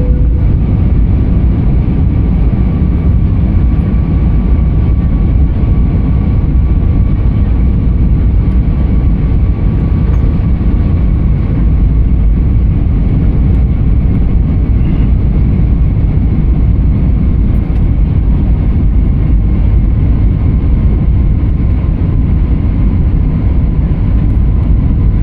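Steady low rumble of an airliner's engines and rushing air heard inside the passenger cabin, with faint steady whining tones above it, as the plane descends toward landing.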